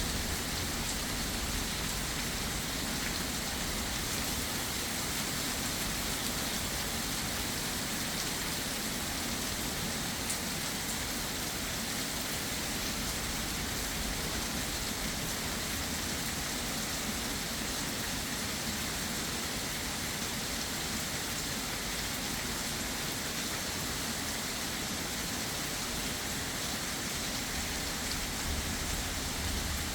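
Heavy rain falling steadily, an even hiss of drops on surfaces with no break.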